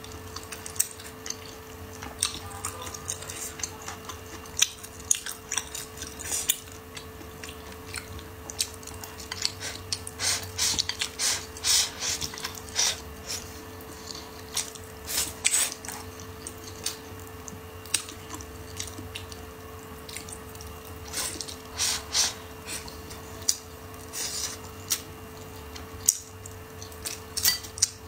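Close-up wet chewing, slurping and lip smacks of a person eating braised pig's trotters and stewed dried green beans, with irregular sticky mouth clicks. A faint steady hum sits underneath.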